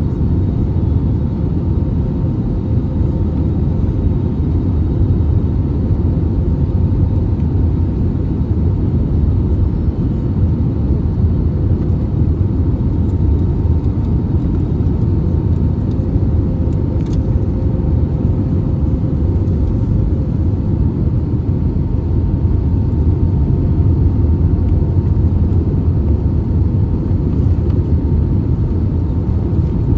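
Steady cabin noise inside an Airbus A320neo in flight: a loud, even low rumble of airflow and its CFM LEAP-1A engines, with faint steady hums above it.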